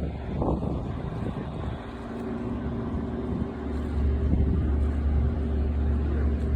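Passenger ferry's engines running with a steady low rumble and hum, the rumble growing louder about four seconds in.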